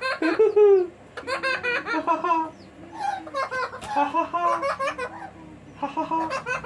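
Alexandrine parakeet chattering: quick runs of pulsed, pitched calls in several bursts, with short pauses between them.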